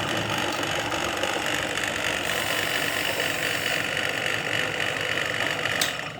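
Coffee grinder driven by a salvaged washing-machine motor, running steadily with a loud whirring. It cuts off suddenly near the end.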